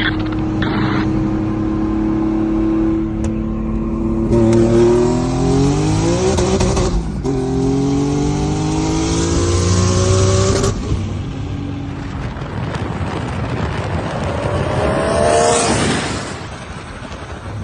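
Car engine pulling hard under full throttle: the revs climb, drop at a gear change about seven seconds in, climb again and cut off near eleven seconds. Near the end a car goes by, its pitch rising and falling.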